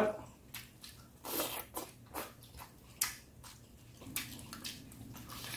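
A person chewing pork skin close to the microphone: irregular soft, wet mouth clicks and smacks.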